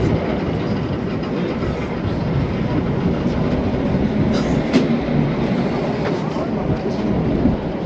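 Steady rumble of a moving train car, with a few faint clicks and rattles.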